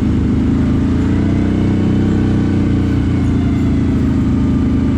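CFMoto 1000 ATV's V-twin engine running steadily at low, even revs while the quad crawls along in low range.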